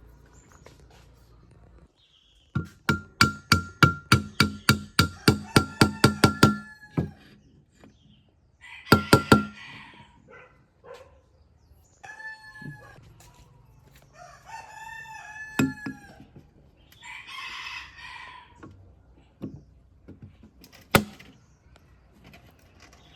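A rapid run of sharp metallic strikes, about four a second, each with a ringing tone, for about four seconds, then a short cluster of strikes and one last knock near the end. In the second half a rooster crows and chickens cluck.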